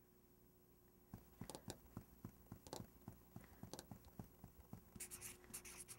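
Faint light taps, two or three a second, starting about a second in. Near the end a pen starts scratching on paper.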